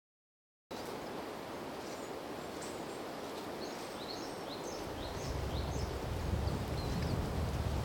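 Small birds giving short, high chirps over and over, with a low wind rumble on the microphone from about five seconds in. The sound begins abruptly just under a second in, after silence.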